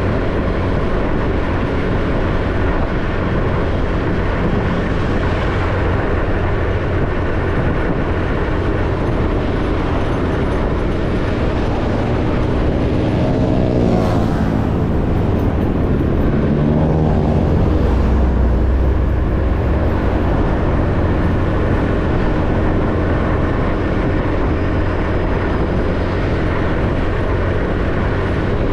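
An ordinary motorbike riding along a road: a steady engine hum mixed with road and wind noise. Near the middle a pitch drops briefly and the sound grows a little louder for several seconds.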